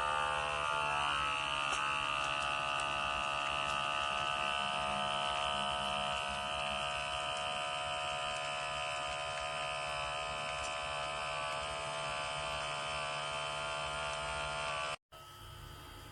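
Portable electric espresso machine's pump running with a steady buzz, rising slightly in pitch as it starts, then stopping abruptly near the end.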